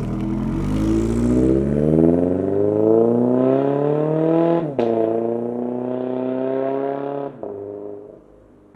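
Car engine accelerating hard, its pitch climbing steadily, then dropping sharply at a gear change just under five seconds in before pulling on again. Near the end the engine lets off and the sound fades away.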